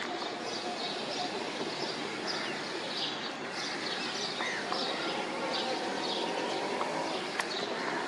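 Birds chirping over and over, short high calls several a second, over a steady hum of outdoor city noise. One sharp click near the end.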